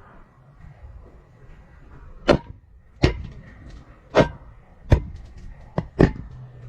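A GoPro hanging on a string knocking against the inside walls of a narrow pipe as it is lowered: about six sharp, irregularly spaced knocks.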